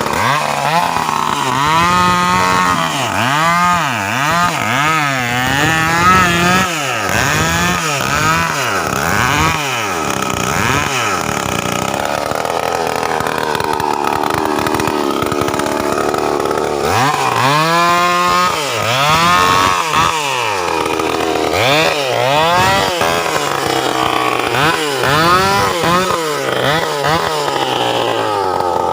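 Stihl two-stroke chainsaw being revved again and again, each blip of the throttle rising and falling back about once a second, with a steadier stretch in the middle. The owner likens its sound to a KTM motocross bike.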